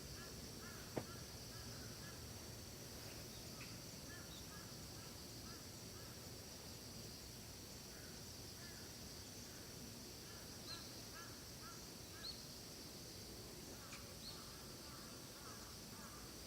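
Faint forest birdsong: small birds calling with short repeated chirps, a few higher rising chirps near the end, over a steady high hiss. A single sharp click comes about a second in.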